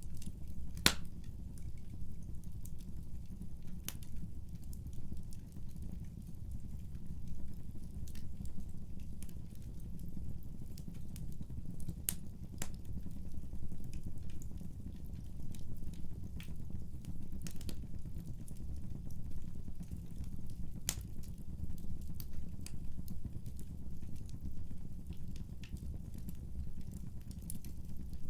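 Wood fire in a fireplace burning with a steady low rumble and scattered sharp crackles and pops, the loudest about a second in.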